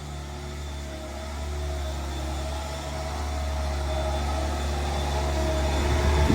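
Bobcat S66 skid steer's diesel engine running steadily while driving a Harley rake attachment, growing gradually louder, with a faint high whine above the engine hum.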